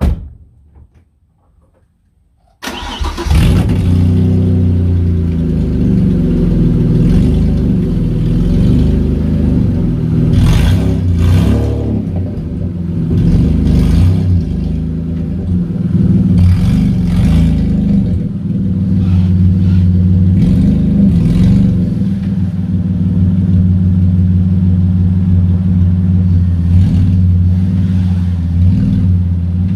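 A car door thumps shut, then about two and a half seconds later the Vauxhall Vectra GSi's V6 engine starts and runs on, its revs shifting slightly as the car is manoeuvred.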